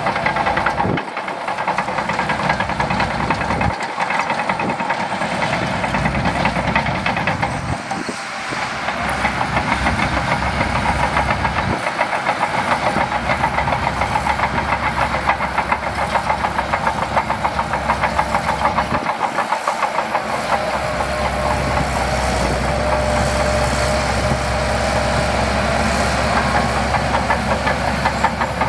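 Shantui DH17C2 crawler bulldozer running under working load: a steady diesel engine with a fast clatter, and a whine that drifts up and down in pitch as the load changes.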